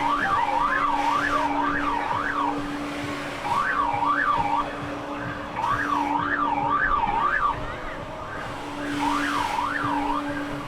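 An electronic siren-like warble, the pitch sweeping up and down about three times a second, sounding in bursts of one to two seconds with short gaps. Under it runs a steady low hum that drops out now and then.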